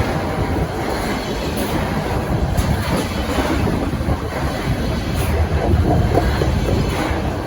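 A long rail train rolling past, a steady low rumble of wheels on track with occasional wheel clicks over rail joints.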